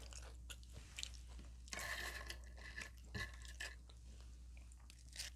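Close-miked chewing of a crunchy taco: faint, irregular crunches and wet mouth clicks.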